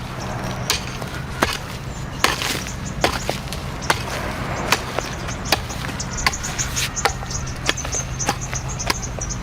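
Steady, repeated chopping strokes with a blade, about one every three-quarters of a second.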